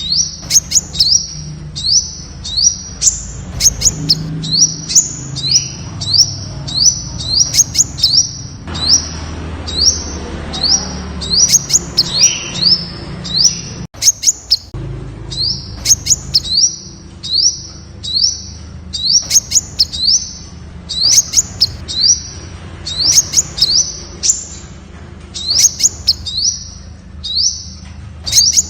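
Temminck's sunbird singing: a long, steady series of short, high, upward-slurred notes, about two a second, over a faint low rumble.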